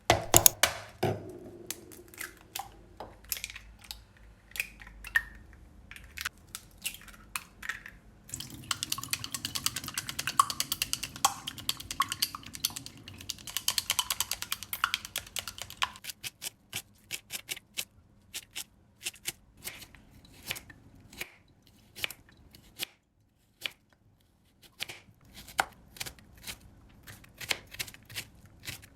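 Kitchen cooking sounds: a run of sharp clicks and knocks from utensils and dishes, with a stretch of steady hissing from about eight to sixteen seconds in.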